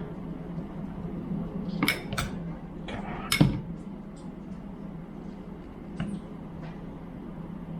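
Screwdriver and pick clinking and scraping against the locking clip of a power steering pump as the clip is pried out. There are several sharp metallic clicks: two close together about two seconds in, the loudest one about three and a half seconds in, and a smaller one near six seconds, all over a steady low hum.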